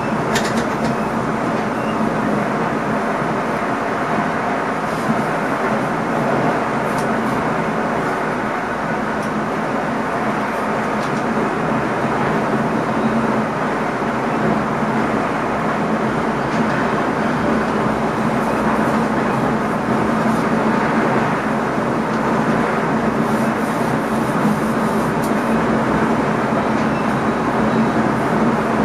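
Steady running noise inside the driver's cab of an NS ICM electric multiple unit under way on the rails, with a low constant hum and a few faint clicks.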